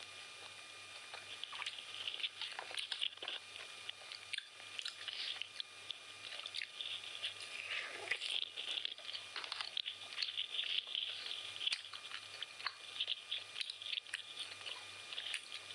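Close-up chewing of chicken biryani: a continuous run of irregular wet mouth clicks and crunches, over a faint steady low hum.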